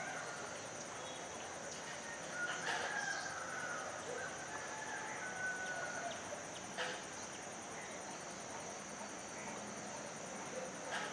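A rooster crowing, drawn out, about twice, over a steady high-pitched buzz.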